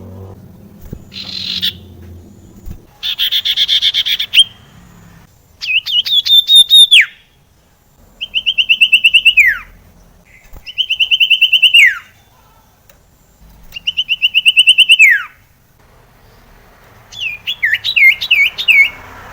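Common iora (sirtu) song: a buzzy phrase, then about five rapid high trills a few seconds apart, most ending in a falling whistle.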